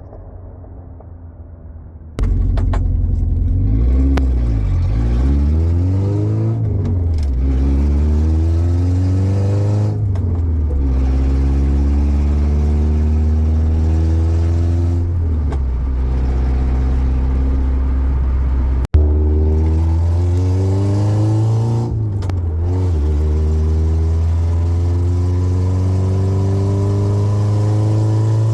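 Subaru EJ20 flat-four in a Beetle, straight-piped, accelerating hard through the gears. It comes in loud about two seconds in, climbing in pitch and dropping at each shift, with a low rumble under a raspy top end that is much too loud. Near two-thirds of the way through, the sound cuts out for an instant.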